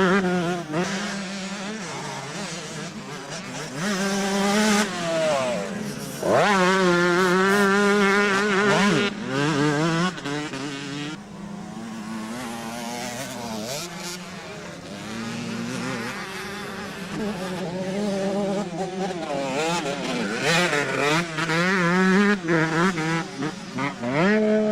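Several motocross bikes' engines revving hard and dropping back again and again as riders accelerate, shift and brake around the track, the sounds of different bikes overlapping. The loudest stretch of full-throttle revving comes from about six to nine seconds in.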